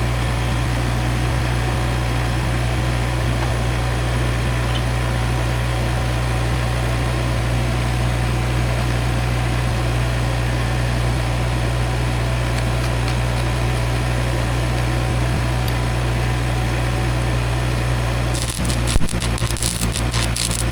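Arc welding on steel: a steady crackling hiss over a constant low machine hum. The arc stops about 18 seconds in, followed by a few metallic clinks and knocks.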